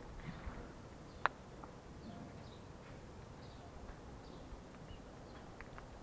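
Faint outdoor ambience with scattered faint chirps and one sharp click a little over a second in.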